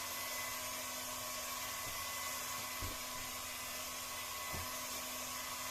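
Hot-air heat gun running steadily: an even hiss of blown air with a faint low hum. Two faint low thumps come about three and four and a half seconds in.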